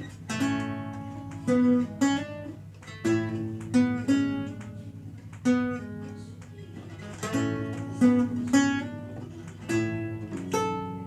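Renaissance lute played solo: chords and single notes plucked in slow phrases, each ringing and dying away, with short gaps between.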